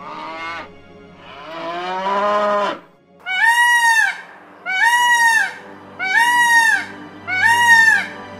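A calf moos twice, a short falling call and then a longer rising one. Then a male Indian peafowl gives four loud, wailing calls, each rising and falling, about a second long and a second apart.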